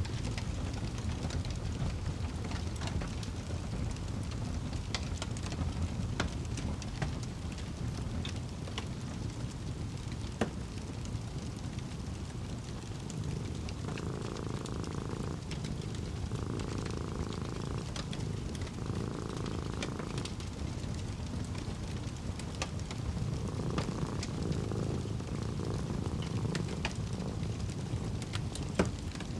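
Wood fire crackling with scattered sharp pops over a low steady rumble. From about halfway through, a cat purring in long pulses a couple of seconds apart.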